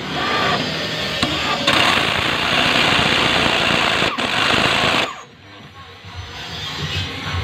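Jigsaw running and cutting through plywood, a loud rapid buzzing chatter. It cuts off suddenly about five seconds in, leaving a quieter background.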